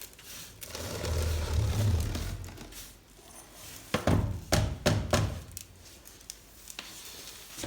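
Cleaning tools working in a fireplace: a low scraping rumble, then several sharp knocks about four to five seconds in.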